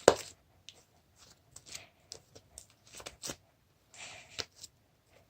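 Hands kneading sticky fluffy white slime made of glue and shaving cream, giving irregular short sticky pops and rustles. The loudest comes right at the start.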